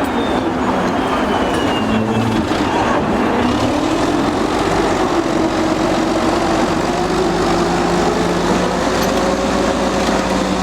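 Old Caterpillar D8 crawler bulldozer working: its diesel engine runs steadily under load, its note slowly rising and falling, with the clatter of steel tracks.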